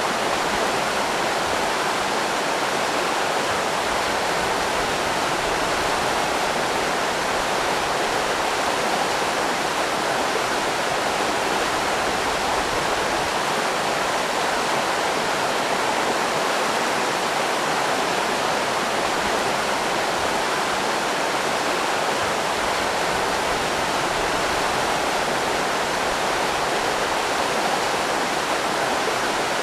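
River rapids rushing over rocks: a steady, unbroken roar of running water.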